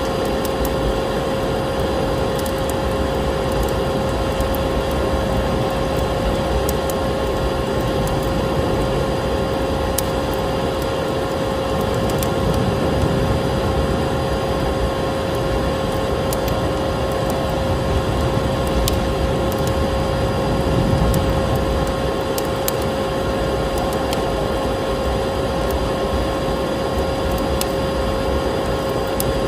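Electric vacuum cleaner running steadily with a constant motor whine, over a wood fire crackling and popping with scattered sharp snaps.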